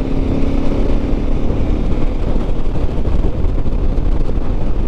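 KTM motorcycle being ridden: the engine holds a steady note that fades away about two seconds in, under a constant rush of wind and road noise on the microphone.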